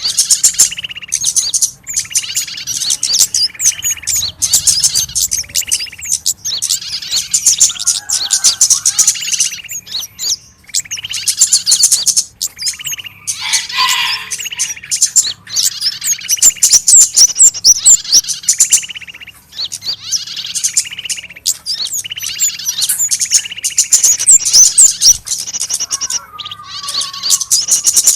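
Small-bird lure calls: many songbirds giving rapid, high, excited chirps and scolding alarm notes over each other, with a short call note repeating about once a second, like birds calling around a trapped bird in distress.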